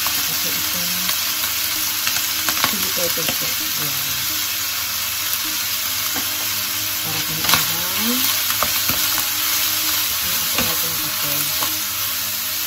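Diced chicken, onion and chili sizzling steadily as they fry in oil in a nonstick pan, with a few sharp knocks and scrapes of a wooden spatula.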